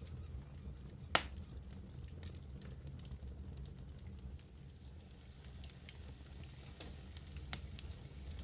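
Medium wood fire burning: a steady low roar under frequent small crackles, with one sharp pop about a second in and a few more pops near the end.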